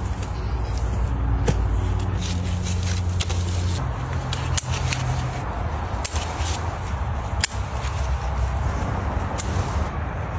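A steady low motor-like hum with a noisy rush over it, broken by scattered sharp clicks and knocks.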